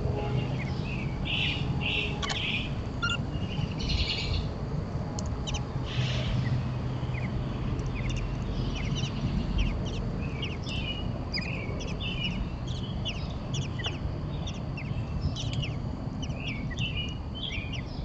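Songbirds chirping, many short calls scattered throughout and busier in the second half, over a steady low hum.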